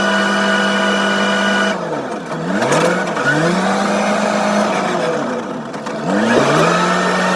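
Engine of a wheel loader or small tractor running at high revs, dropping in speed about two seconds in and again near five seconds, and revving back up each time as the throttle is eased off and opened again.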